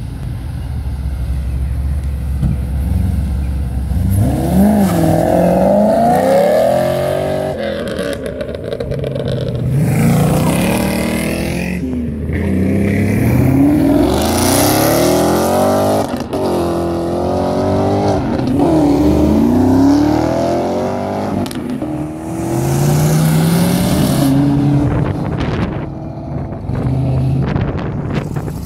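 A convoy of V8-engined cars driving past one after another. Each engine revs up and falls away as it passes, and the engine notes rise and fall repeatedly. The exhaust noise is loud and continuous.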